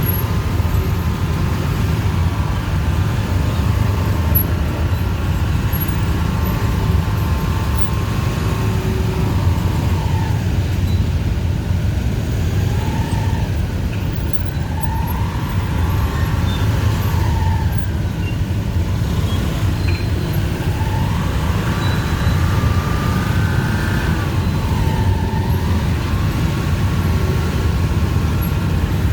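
Dense street traffic: a steady low rumble of engines, with motorbike engines whining up and down in pitch several times as they speed up and ease off.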